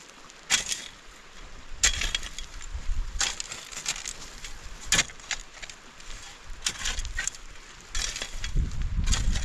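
A series of sharp crunching impacts at irregular intervals, roughly one every second or so, with a low rumble building near the end.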